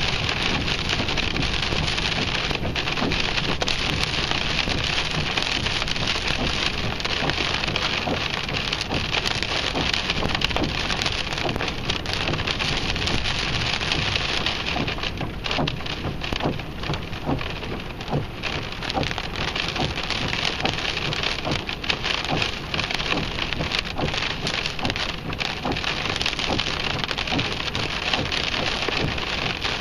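Heavy rain in a windstorm: a steady, dense patter of drops striking a hard surface close by, with many sharp individual hits over a roar of wind-driven rain.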